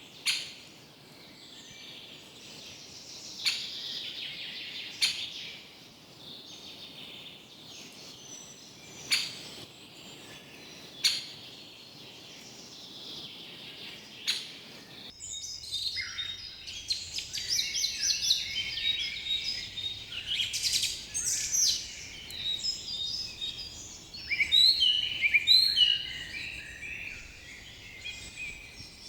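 Several forest birds chirping and singing, with a few sharp clicks or chip notes standing out in the first half. About halfway through the sound changes abruptly to a denser, louder chorus of quick overlapping chirps, busiest near the end.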